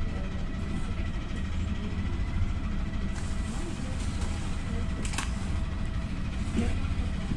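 Cabin noise of a PAZ 320414-04 bus under way: the steady low rumble of its YaMZ-53423 compressed-natural-gas engine and the road, with a faint steady whine. A short rattle sounds about five seconds in.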